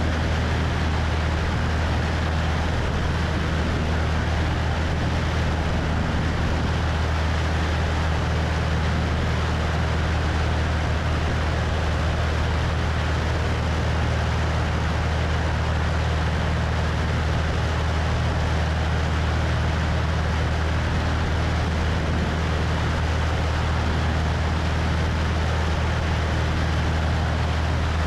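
Cessna 172's piston engine and propeller droning steadily in flight, under a constant rush of wind over the wing-mounted microphone.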